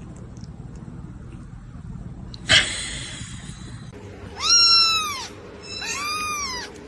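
A cat meowing twice, each meow drawn out and arching up then down in pitch. A short, sharp noisy burst comes about two and a half seconds in, before the meows.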